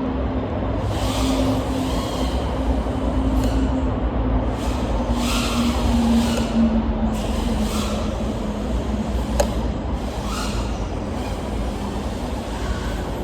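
FPV quadcopter's 1405 4800KV brushless motors and propellers whining, with a steady air rush that surges up and down every second or two as the throttle is punched and eased. A sharp click about nine seconds in.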